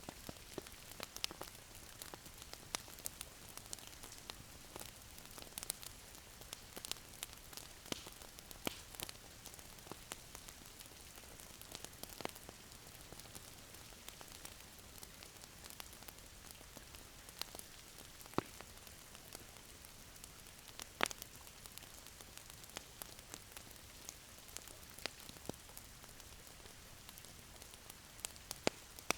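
Wood fire crackling in a fireplace: a soft steady hiss with irregular sharp pops and snaps, one louder snap about two-thirds of the way in.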